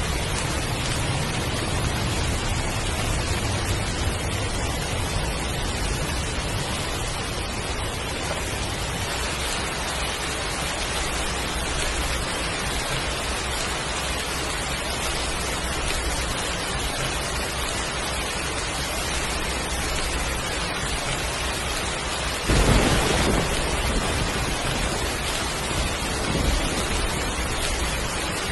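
Heavy rain falling steadily. Near the end a sudden clap of thunder breaks in and rolls on in low rumbles.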